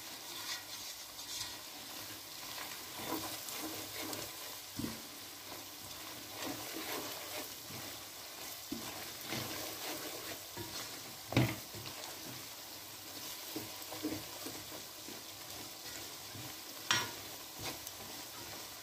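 Onions, curry leaves and ground masala sizzling as they fry in a large metal pot, with a wooden spoon scraping and knocking against the pot as it is stirred. A sharper knock comes about 11 seconds in and another near the end.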